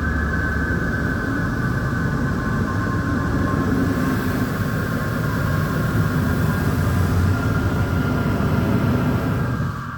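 Christ Varius automatic car wash machinery running: a steady, loud mechanical rumble with a high whine above it. The noise drops away sharply just before the end.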